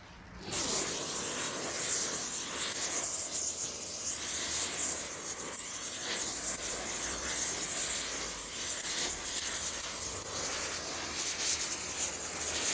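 Gas cutting torch burning with a steady hiss, starting about half a second in, as it heats a steel part so that it expands enough to be fitted on.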